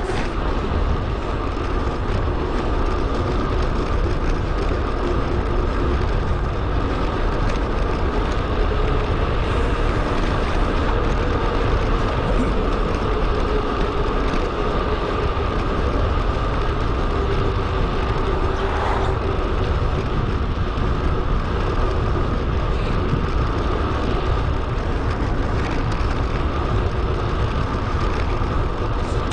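Steady wind and rolling road noise from a bicycle ride, picked up on a GoPro action camera's microphone.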